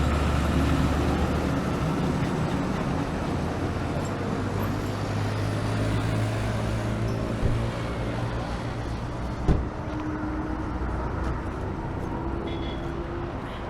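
BMW G310RR single-cylinder motorcycle engine running steadily under a rush of road noise, its pitch stepping up about four seconds in; a single short thump about nine and a half seconds in.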